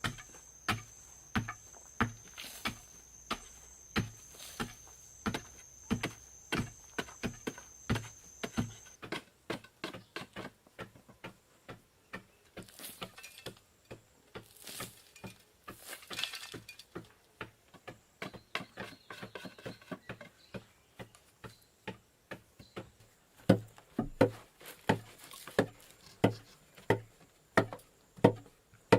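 Repeated sharp knocks, like a hand tool striking, regular at about one or two a second, lighter and irregular in the middle and loudest near the end. A steady high whine runs under the first part and stops about nine seconds in.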